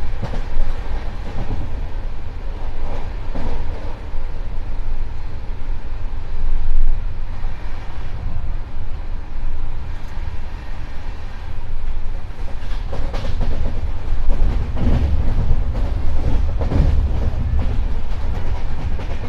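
Express passenger train running at speed, heard from an open coach window: a constant low rumble of steel wheels on the rails. From about two-thirds of the way through comes a louder stretch of rattling clatter.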